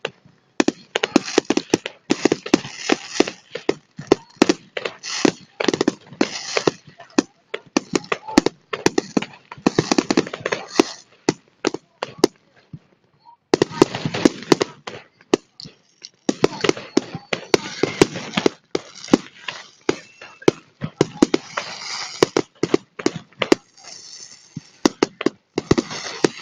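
Fireworks display: rapid, irregular bangs and crackling of bursting shells, with a break of about a second and a half around the middle.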